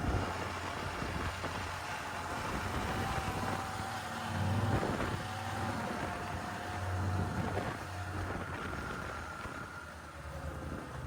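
Snowmobile engine running while under way, a steady drone whose pitch drifts up and down a little.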